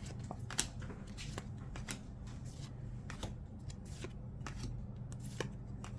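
Trading cards being handled and flipped through by hand: a string of light, irregular card clicks and rustles, about two or three a second.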